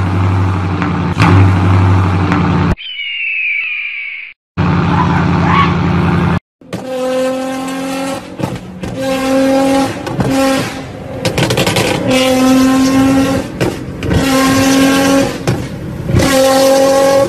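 Sports cars with loud aftermarket exhausts revving hard, in several short clips. A few seconds in there is a brief high gliding squeal; from about seven seconds the engine is held at high revs in repeated bursts of a second or so, with sharp cracks between them.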